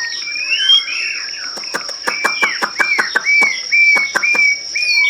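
A white-rumped shama of the Medan type singing in full voice. It opens with a rising warble, then repeats one short whistled note about eight times, roughly two a second, each starting with a sharp click. A steady high-pitched tone runs beneath.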